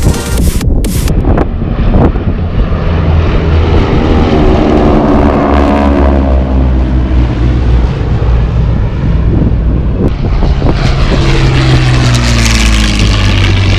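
Piston-engined propeller warbird flying past, its engine drone dropping in pitch as it goes by, then a second pass doing the same near the end.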